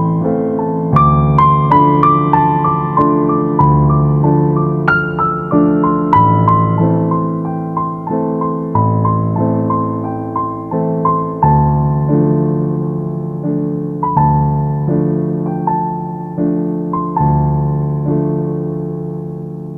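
Gentle piano music: a slow melody of single struck notes over sustained low bass notes, each note fading after it is struck.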